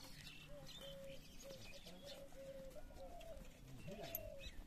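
A bird calling: a faint, steady series of short low notes, about two a second, with a few faint higher chirps.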